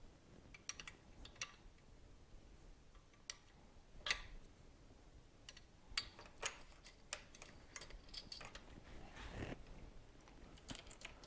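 Faint, irregular clicks and taps of hand tools and small metal parts being handled, with no steady rhythm.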